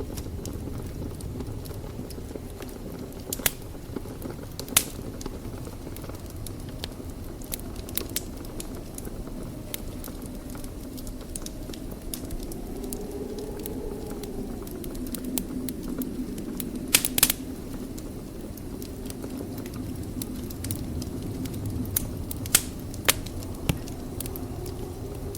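A fire in a fireplace burning with a steady low rumble and hiss, broken by scattered sharp crackling pops, including a close pair and a quick cluster of pops near the end.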